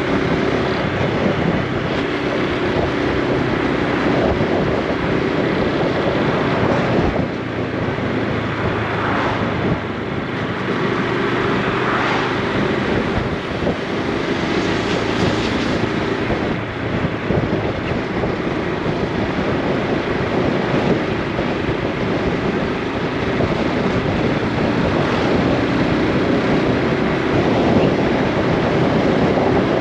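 Honda Super Cub C125's single-cylinder four-stroke engine and exhaust running under way, its note shifting with the throttle, with wind rushing over the microphone.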